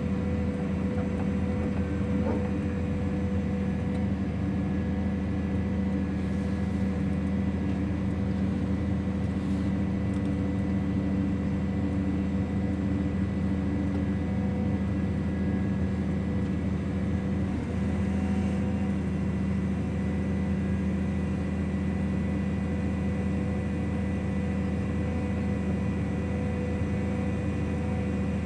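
Heavy construction machinery running steadily, a constant diesel drone with a fixed whine that does not change pitch: the kind of machinery that drills and concrete-fills piles.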